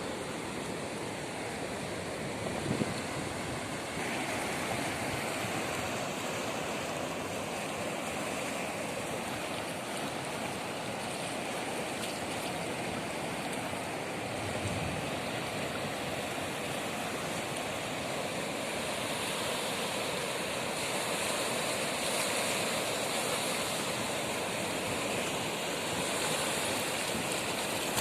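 Steady rushing water, an even hiss-like wash with no breaks.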